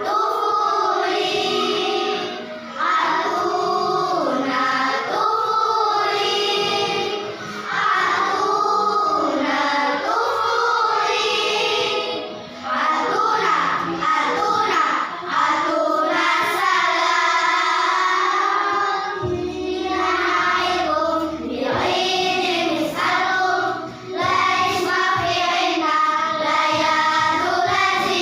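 A children's choir singing in harmony, in held phrases with short breaks between them.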